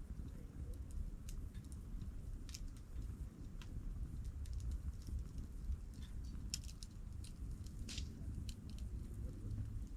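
Wood campfire crackling: irregular sharp pops and snaps of burning wood, a few close together about six and a half seconds in and a stronger one near eight seconds, over a low steady rumble.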